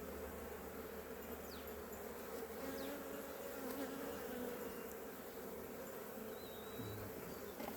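Honey bees buzzing around an open hive, a steady, even hum.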